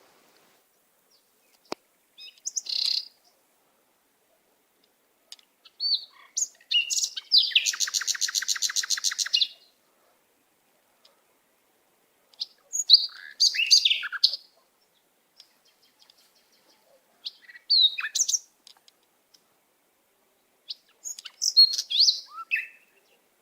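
Small pet birds chirping in short bursts with silent gaps between them, including a fast buzzing trill of about two seconds a third of the way in.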